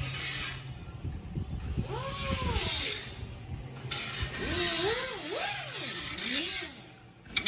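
Metal scraping and squealing in two spells, the squeals sliding up and down in pitch as metal parts are worked hard against each other.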